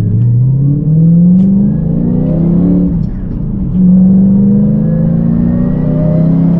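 Lexus GS400's 4.0-litre V8 accelerating under load, heard from inside the cabin. The engine note climbs in pitch, dips briefly at two upshifts about two and three and a half seconds in, then pulls again with a slow steady rise.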